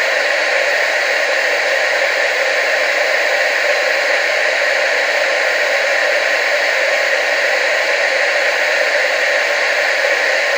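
Television static: a steady, unchanging hiss with little bass, strongest in the upper middle range.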